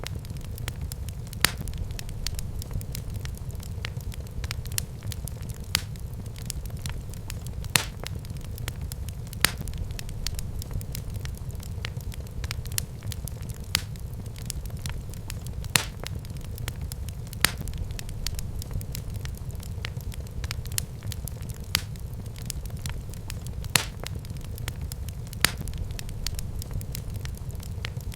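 Wood fire burning in a fireplace: a steady low rumble of the flames with continual small crackles and a sharper pop every second or two.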